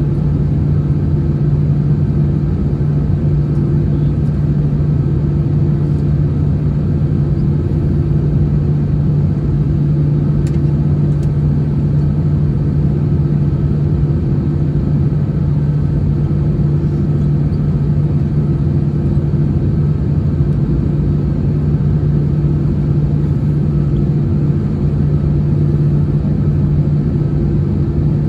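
Steady cabin noise of an Airbus A321-211 heard inside the passenger cabin: the CFM56-5B turbofan engines running evenly as a deep rumble with a constant low hum, and no change in level.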